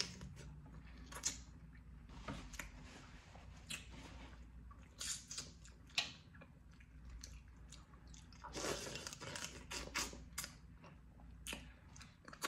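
A person chewing boiled blue crab meat, with many short scattered clicks as the crab is picked apart by hand; a longer stretch of chewing sound comes about nine seconds in.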